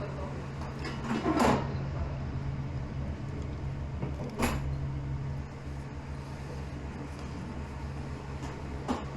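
Restaurant room tone: a steady low hum with a short clatter about a second and a half in, and sharp knocks about four and a half seconds in and again near the end.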